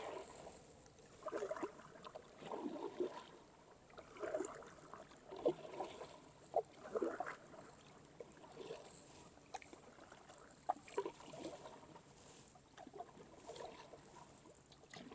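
Kayak paddle blades dipping and splashing in calm water, stroke after stroke about once a second, the strokes growing fainter in the second half.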